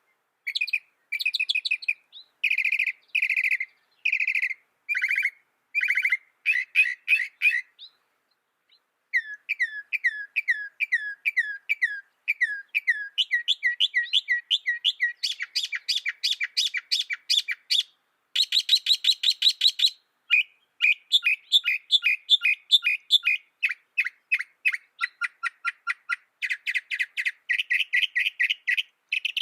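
Mockingbird singing: quick series of repeated notes, each kind repeated several times before switching to a new phrase, with a brief pause about eight seconds in.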